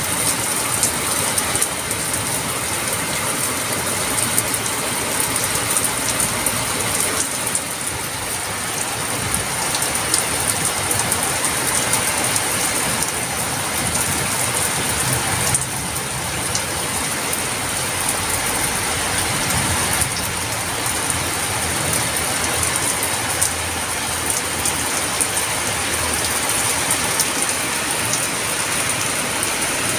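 Heavy rain falling steadily: a dense, even hiss with a steady high-pitched edge, peppered with the small ticks of drops striking nearby surfaces.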